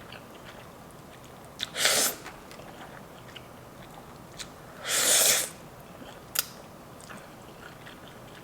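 Slurping of Samyang fire noodles, two loud slurps about two and five seconds in, with soft chewing and mouth clicks between them.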